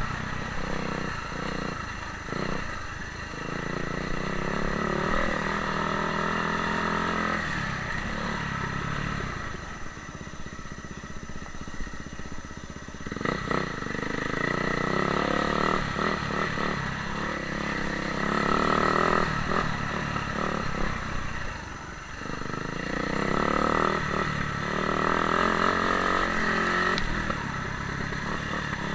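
Motocross bike engine running and revving, rising and falling in pitch as the throttle opens and closes, with a quieter stretch about ten to thirteen seconds in.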